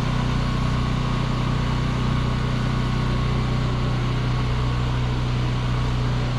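Generator engine running steadily, a constant low hum.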